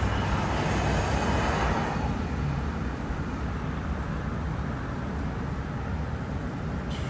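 Car moving along a road: steady low engine and tyre rumble, with a louder rush of road noise over the first couple of seconds that then settles.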